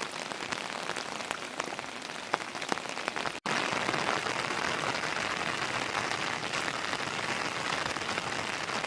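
Heavy rain falling, with many separate drop hits close by. About a third of the way in it cuts abruptly to a louder, denser downpour.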